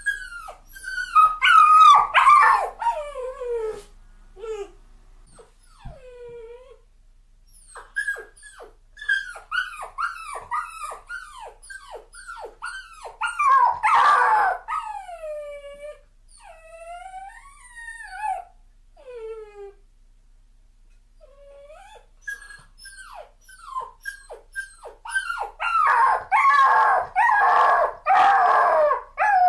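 Dog crying and whining: many short high cries, each falling in pitch, coming in bouts. The last bout near the end is the densest, with several cries overlapping.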